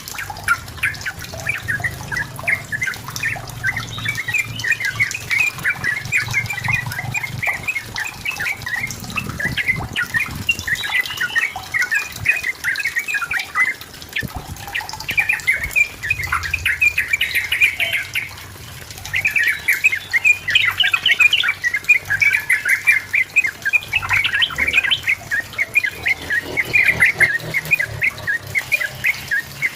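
Yellow-vented bulbul (trucukan) singing energetically: a rapid, almost unbroken chatter of short bubbling notes, pausing briefly twice around the middle.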